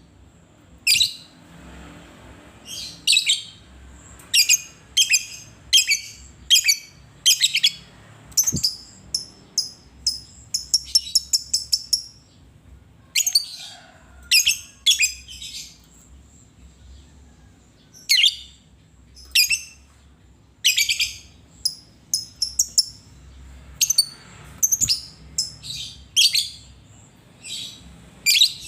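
Lovebird chirping: sharp, shrill calls at about one or two a second, with a fast rattling run of chirps near the middle.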